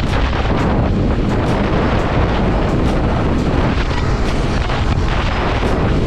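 Loud, steady wind rushing over the microphone of a moving motorcycle, heavy in the lows, with the ride's vehicle noise mixed in.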